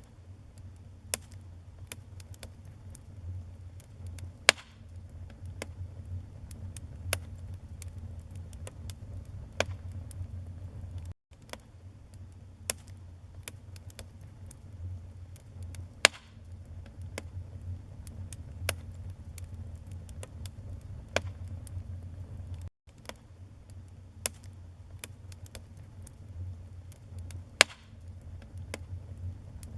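Wood fire burning in a fireplace: a steady low rumble of flames with irregular crackles and pops, and a few louder snaps. The sound drops out for an instant twice, at the joins of a looped recording.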